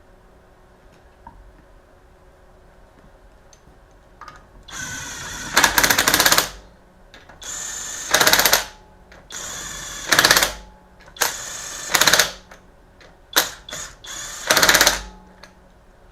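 Impact wrench running lug nuts onto a wheel in about six bursts of rapid hammering, each about a second long, with short pauses between.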